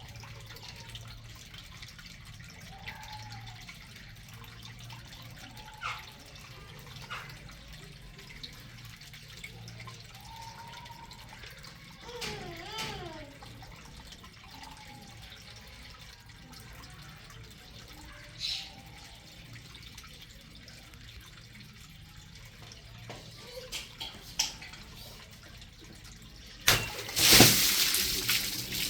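A water balloon bursting near the end, its water gushing out and splashing for about two seconds. Before that, only faint scattered clicks and drips.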